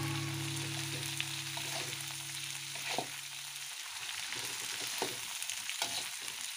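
Grasshoppers frying in oil in an aluminium wok, a faint steady sizzle, with a perforated metal skimmer stirring them and scraping and tapping the pan a few times.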